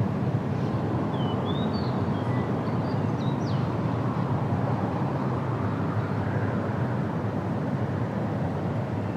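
A steady low rumble of outdoor background noise, with a few faint, quick bird chirps during the first few seconds.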